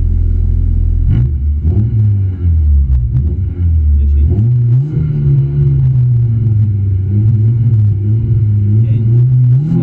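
Honda Civic rally car's four-cylinder engine heard inside the cabin. It idles low, is blipped up and down about a second in, and from about four seconds is held at raised, slightly wavering revs while the car stands still.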